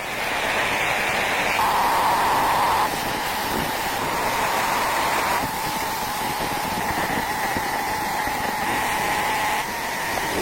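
Steady hiss like rain, with a faint steady high tone over it; the sound changes abruptly several times, as at cuts between shots.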